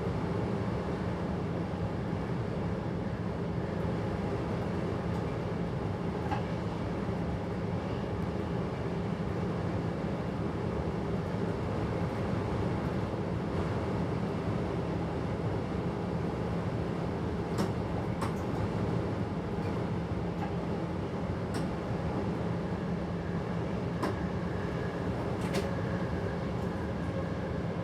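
Steady running noise of a passenger train heard from inside the driver's cab, with a constant low hum. Several short sharp clicks come in the second half.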